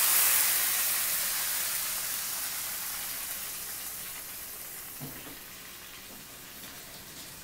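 Yogurt-and-tomato-marinated chicken sizzling in hot oil in a pan, just after being poured in. The sizzle is loudest at first and dies down steadily.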